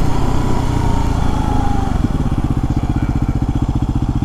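Yamaha WR250R's single-cylinder 250 cc engine running at low speed; about two seconds in it settles into a slow, even chugging of individual firing pulses, like an idle.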